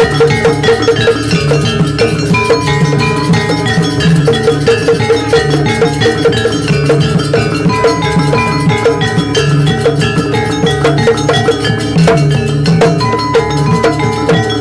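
Javanese gamelan-style percussion ensemble playing dance accompaniment: a fast, steady beat of metal strikes over drums, with pitched metal notes sounding melodic phrases above.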